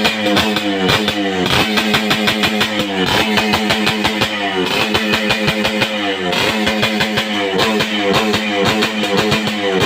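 Yamaha RX King two-stroke single-cylinder motorcycle engine with an aftermarket underbelly expansion-chamber exhaust being revved in repeated throttle blips, the revs dropping back after each one.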